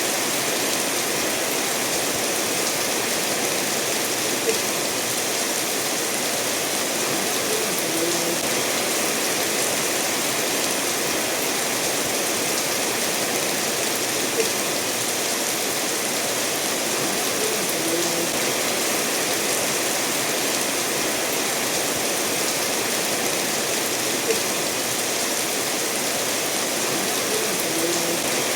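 Steady rain falling, mixed with a river running over stones, an even, unbroken wash of water noise. A sharp tick stands out three times, about ten seconds apart.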